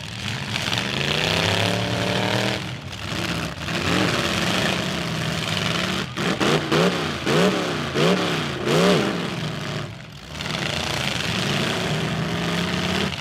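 Full-size demolition derby car engines running and revving: one climbs in pitch about a second in, then an engine gives four quick revs in a row near the middle, each rising and falling.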